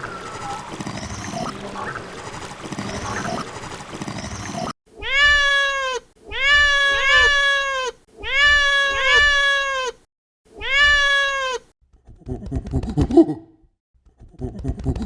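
Cats meowing: four long, arched meows about a second apart, some with a second cat's meow overlapping, after a noisy stretch with faint chirps. Near the end, lower rough grunting calls from another animal follow.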